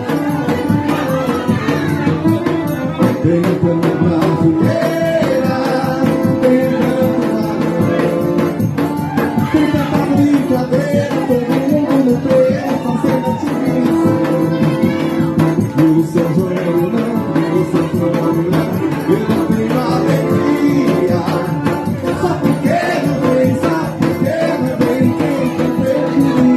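Live forró music: a zabumba drum playing the rhythm under a melody.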